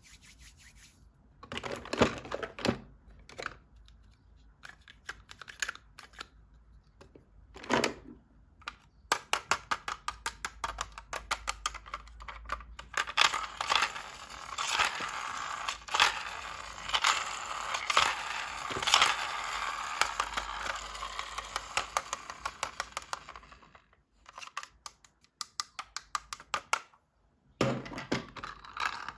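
Toy packaging being handled and opened, with crinkling and tearing. Scattered clicks build into a long run of rapid crackling through the middle, then a short pause near the end.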